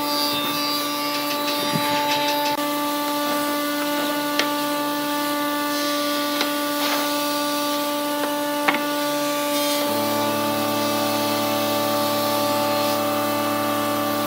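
A power tool's motor running steadily at a constant pitch, with a few sharp ticks; about ten seconds in its tone changes and deepens.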